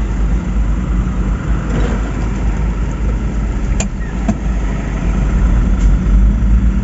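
Heavy diesel truck engine running low and steady, with two short sharp clicks about four seconds in; it grows a little louder near the end.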